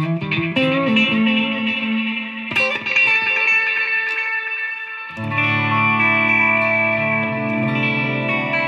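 Electric guitar, a Fender Player Stratocaster, played through a Fender Mustang GTX100 modelling amp on its "Milky Way" effects preset. Sustained, ringing chords: a new chord is struck about two and a half seconds in, and a fuller, lower chord about five seconds in.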